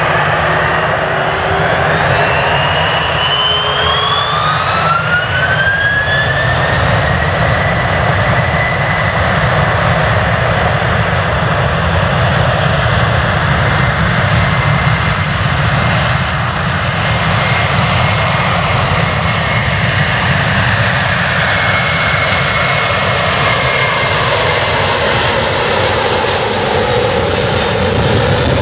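Jet airliner's engines on departure: a loud, steady jet roar with a whining tone that rises over the first several seconds and then holds, some tones dropping near the end.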